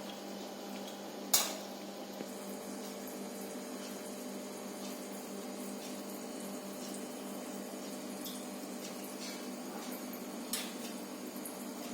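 Aquarium water circulating, a steady running and bubbling with small splashing ticks. A sharp click about a second in is the loudest sound, and a fainter one comes near the end.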